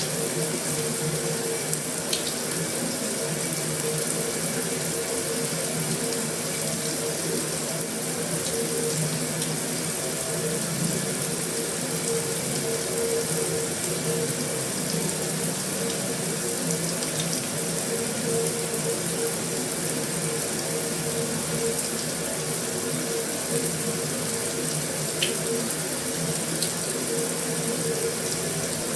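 Heavy rain falling steadily on a metal roof, a dense even hiss with an occasional faint sharp tick of a drop.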